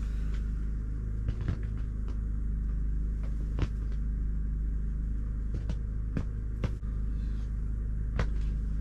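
A steady low rumble and hum with a few sharp light clicks and taps scattered through it.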